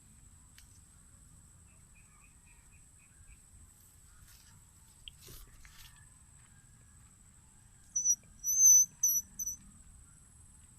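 Four short, loud, shrill whistles in quick succession near the end, over a steady high-pitched insect drone.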